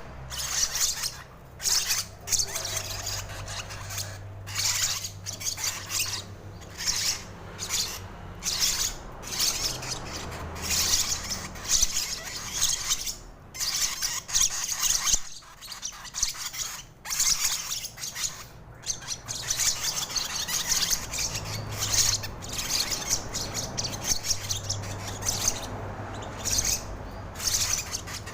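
Lovebird being fed from a spoon, giving harsh, raspy squawks in short bursts that repeat every second or so.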